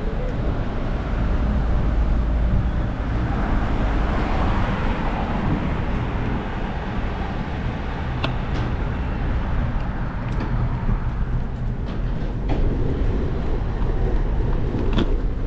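Road traffic or a car driving: a steady low rumble with road hiss, broken by a few sharp clicks.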